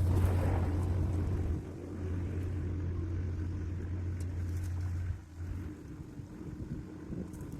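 Doosan DX35z mini excavator's diesel engine running under load with a steady low drone. It eases off to a lower level about five seconds in.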